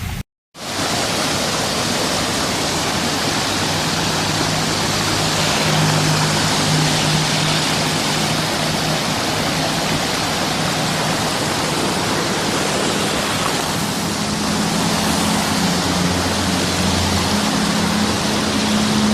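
Heavy rain pouring down, a loud steady hiss, over a low steady hum. It starts after a brief break of silence.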